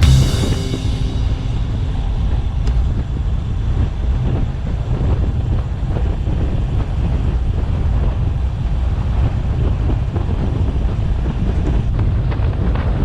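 Wind buffeting an action camera's microphone while riding a bicycle: a steady low rumble with rushing noise.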